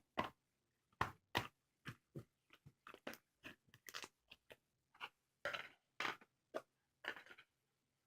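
Slime being squeezed and pressed by hand, giving irregular crackling pops and clicks, about two or three a second.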